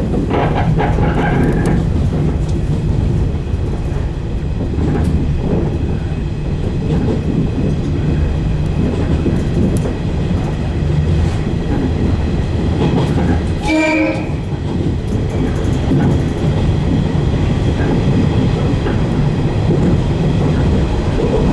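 115 series electric train running at speed, heard from the cab: a steady rumble of wheels and traction motors with some clickety-clack over the rail joints. About 14 seconds in there is one short, pitched toot, likely the train's horn.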